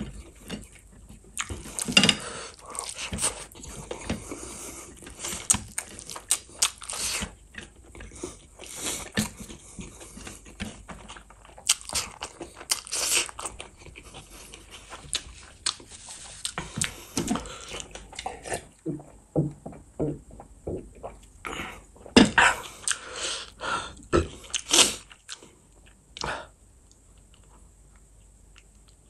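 Close-miked eating sounds of a person eating rice and gravy by hand: chewing and lip smacking, with many sharp wet mouth clicks. They die away a few seconds before the end.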